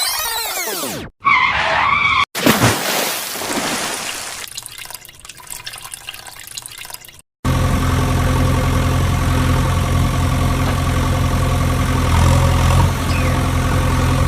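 A string of edited sound effects: sweeping tones, then a short separate effect and a fading noisy stretch that cuts off abruptly. From about halfway, a steady engine hum runs on, like a heavy vehicle idling.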